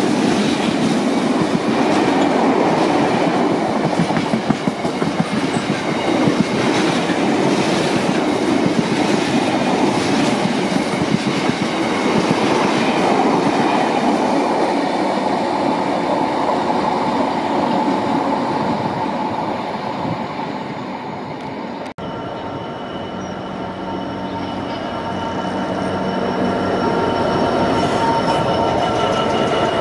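A freight train of bogie tank wagons rumbles past close by, its wheels clattering over the rail joints. About two-thirds of the way in, a Class 66 diesel locomotive hauling box wagons approaches and passes, growing louder, with steady high-pitched tones over its rumble.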